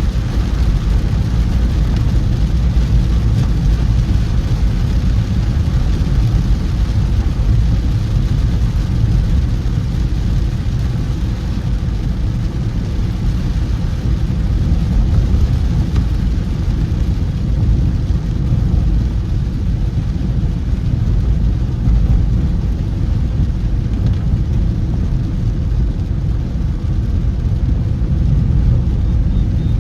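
Car driving on wet roads in heavy monsoon rain: a steady low rumble of engine and tyres with a hiss of rain and spray over it.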